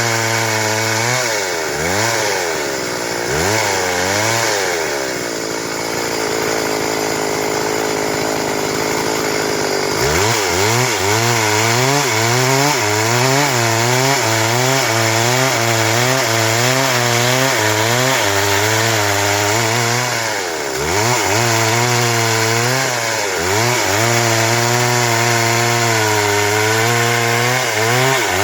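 Stihl MS 382 two-stroke chainsaw cutting through wood at high revs, its pitch wavering as the chain loads and recovers in the cut. The revs dip briefly twice in the first few seconds and run slower and steadier for about four seconds. About a third of the way in it opens back up to full throttle, with two more short dips later.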